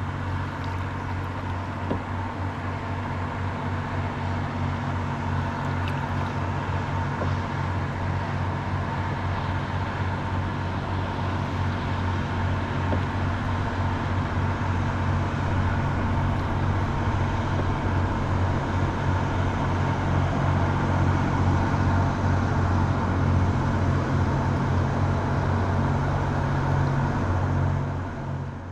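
Engine of a river barge running steadily as it churns upriver, a low drone that grows slowly louder and then cuts off abruptly near the end.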